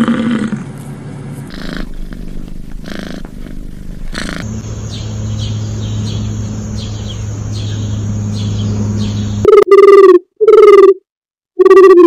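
Holstein cow finishing a low moo, then house sparrows chirping about twice a second over a steady hum, then from about three-quarters of the way in, loud, evenly spaced low pigeon calls, each about half a second, with silence between.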